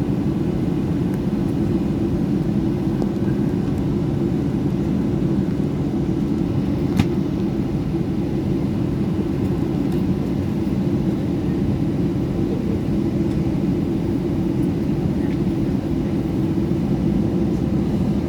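Steady cabin noise of a Boeing 737-800 with its CFM56 turbofan engines running, heard from a window seat as an even low rumble that stays level throughout. A single faint click comes about seven seconds in.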